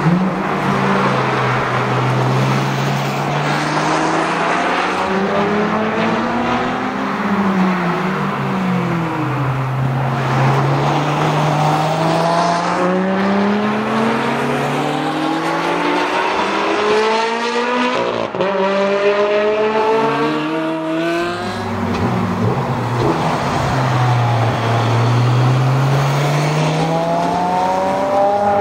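Ferrari 599 GTO's 6.0-litre V12 engine on a race track, its pitch climbing through the revs under acceleration and dropping off again several times as the car drives past and away.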